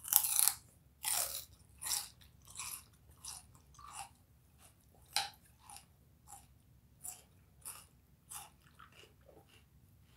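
Close-up mouth sounds of a person biting into something crunchy and then chewing it. One loud crunch at the bite, then a steady run of smaller crunches, about one or two a second, that grow fainter as the food is chewed down.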